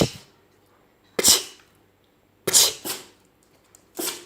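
Miniature pinscher sneezing repeatedly on command: short, sharp sneezes about every second and a half, one of them a quick double.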